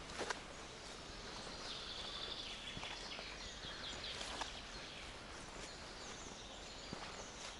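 Coniferous forest ambience: small birds chirping in short high bursts, busiest in the middle, over a steady quiet background hiss, with a few soft footsteps on the forest path.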